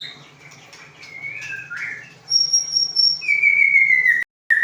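A murai songbird singing: soft whistled phrases at first, then louder clear whistles, with a long, slightly falling whistled note about three seconds in. The audio cuts out briefly just before the end, over a faint steady low hum.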